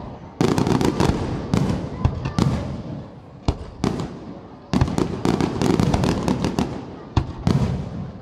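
Fireworks display going off: volleys of close-spaced bangs and cracks from aerial shells, several in quick succession, with short gaps between the volleys and each bang trailing off in echo.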